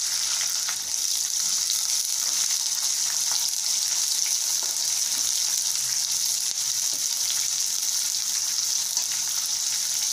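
Sliced onions frying in hot oil in a kadai with a tempering of mustard seeds, cumin, urad dal, dried red chillies and curry leaves, stirred with a spatula: a steady high sizzle with scattered small crackles.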